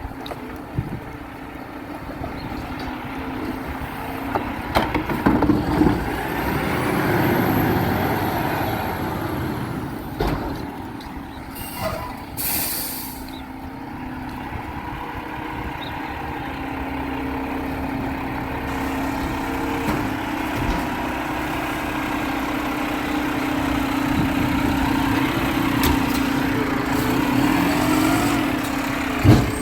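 Garbage truck engine running, with a short sharp air-brake hiss about twelve seconds in and a few scattered knocks. In the second half a steady engine hum grows slowly louder toward the end.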